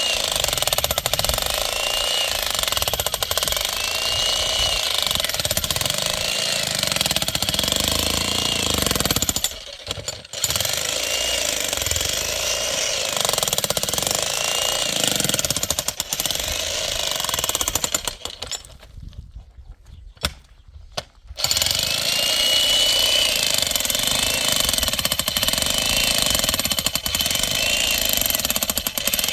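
Electric demolition hammer chiselling at masonry, a rapid continuous hammering that runs in long stretches. It pauses briefly about ten seconds in and stops for about three seconds around twenty seconds in.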